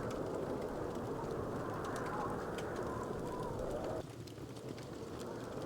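Wood fire crackling, with scattered small sharp pops over a steady low rushing noise. The rushing noise drops away abruptly about four seconds in.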